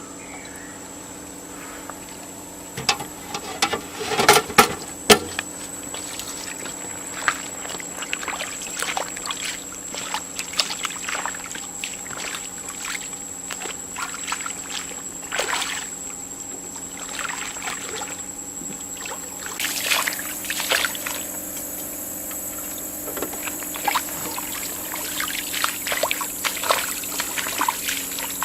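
Water splashing and sloshing in irregular bursts, over a steady mechanical hum.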